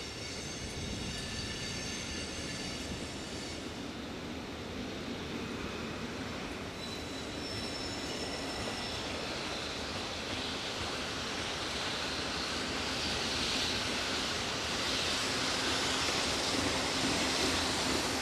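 Freight train of oil tank wagons behind an EF65 electric locomotive rolling in and growing steadily louder as it approaches. High-pitched wheel squeal rings out in the first few seconds and again around the middle.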